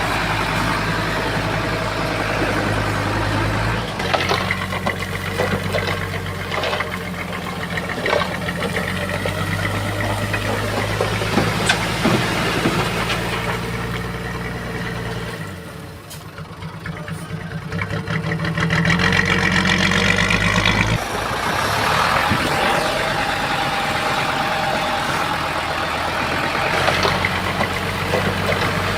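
Bulldozer's diesel engine running under varying load, its pitch shifting up and down, with scattered clanks and knocks. About halfway through the engine drops and goes quieter, then rises and gets louder for a few seconds before settling back.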